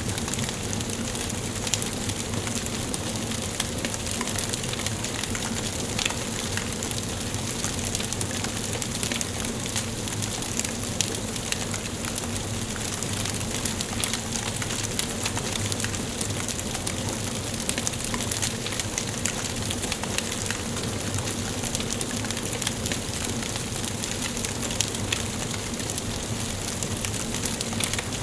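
Wood fire burning in a fireplace: a steady hiss with frequent small crackles and an occasional louder pop.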